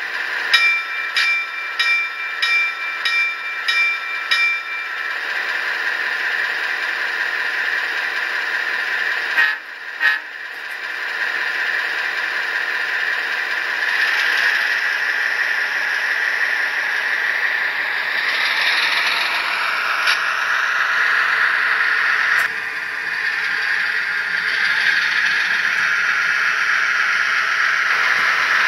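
An HO-scale model locomotive's Tsunami sound decoder plays a Fairbanks-Morse 38D opposed-piston diesel prime mover through the model's small speaker. It opens with a ringing signal struck about twice a second for five seconds, then two sharp clicks. The engine sound then runs and builds, changing pitch and level in a few steps as if notching up.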